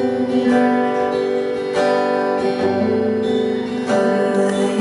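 Acoustic guitar strumming chords, a new stroke roughly every second, in the instrumental gap between sung lines of a song.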